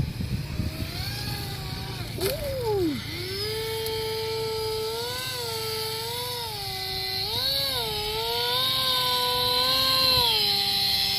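Electric motor and propeller of an RC Icon A5 model seaplane whining at a steady pitch that steps up and down with the throttle. About two seconds in, after a short click, the pitch drops sharply and climbs back up.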